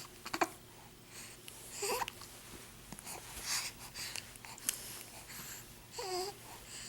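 A four-week-old's small vocal noises: snuffly, wheezy breaths and two short squeaky cries, one rising about two seconds in and one wavering down near the end.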